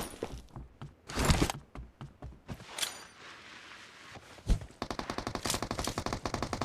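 Video game gunfire: a few separate shots about a second in, then a single heavy thump followed by rapid automatic fire at about ten shots a second.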